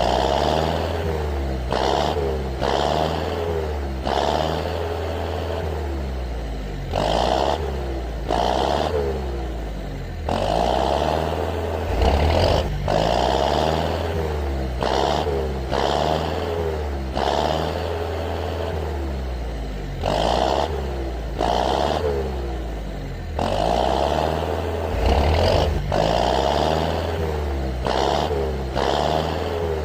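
Heavy-vehicle engine sound effects: a steady low engine rumble with repeated revs that rise and fall, over intermittent clattering and scraping.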